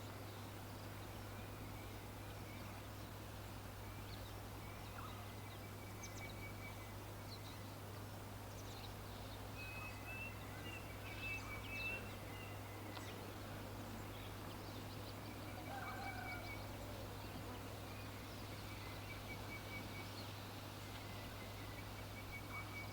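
Faint bird calls: short chirps and rapid pulsed trills repeating every few seconds, over steady background noise and a low hum.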